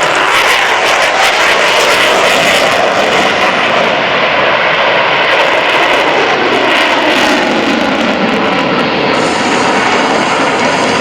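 Jet engines of Blue Angels F/A-18E/F Super Hornets in flight: a loud, steady rush of jet noise with a slight fall in pitch midway.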